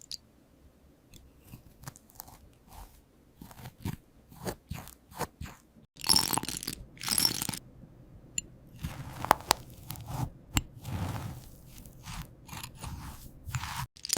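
Crisp crunching and crackling of golden toast, as irregular short crackles with louder crunchy bursts about six seconds in and again a few seconds later.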